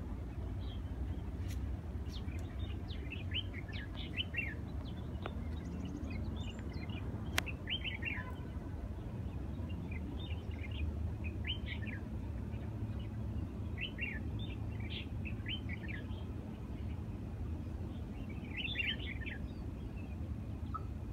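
Small birds chirping in short bursts of quick, high, downward-sliding notes every few seconds, over a steady low rumble. One sharp click about seven seconds in.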